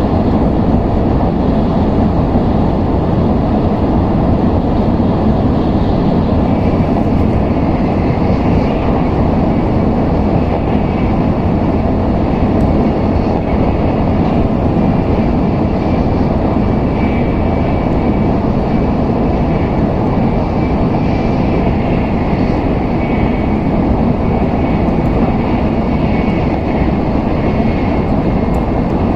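Steady running noise heard inside the cabin of an N700S Shinkansen train: an even low rumble and rush of wheels and air, with a faint high whine from about seven seconds in.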